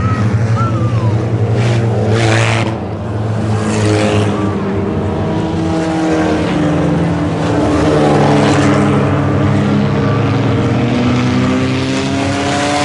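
IMCA Sport Compact race cars' four-cylinder engines running together. Several engine notes overlap, each rising and falling in pitch as the cars circulate.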